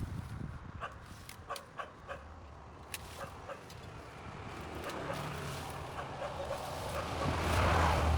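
A vehicle passes close by: a low hum and road noise build up to their loudest near the end. Earlier there is a scattered run of sharp ticks and clicks.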